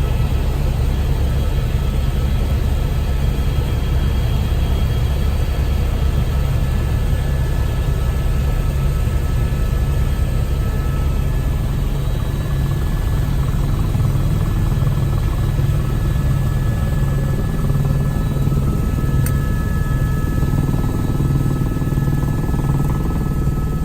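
Helicopter in flight heard from inside the cabin: a steady, loud, low rumble of engine and rotor, with a single faint click near the end.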